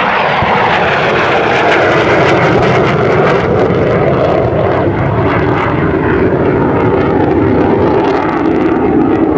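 F-100 Super Sabre's Pratt & Whitney J57 turbojet roaring loudly on a flyby, its pitch dropping at the start as the jet passes, then a steady rumbling roar.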